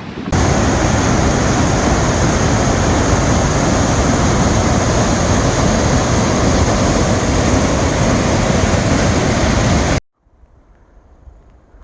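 A waterfall's water falling in a loud, steady rush that stops abruptly about ten seconds in.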